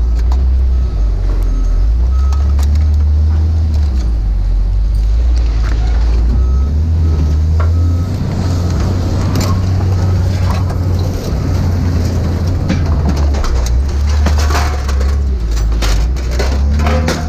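A large vehicle engine runs with a steady low rumble. A reversing beeper sounds in short repeated beeps in the first few seconds and again briefly around the middle, and scrap metal clanks now and then, most sharply near the end.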